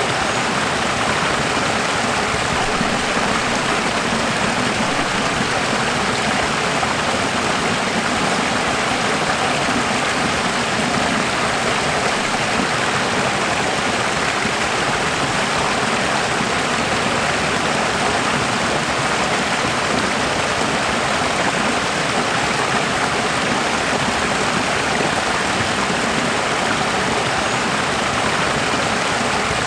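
Running water rushing steadily, an even, unbroken hiss with no change in level.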